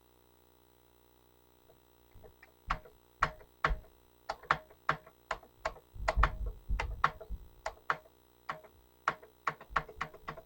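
Commodore 64 keyboard keys clacking as they are pressed one at a time, about two or three presses a second, starting after a brief quiet spell, with heavier thuddy presses in the middle. The A key on this keyboard has to be pressed harder to register.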